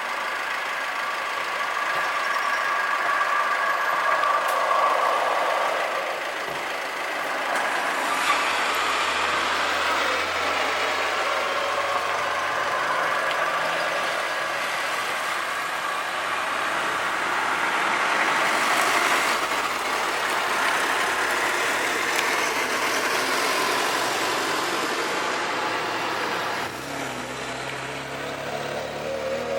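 Street traffic: vehicle engines, including a heavier truck-like one, running and idling steadily.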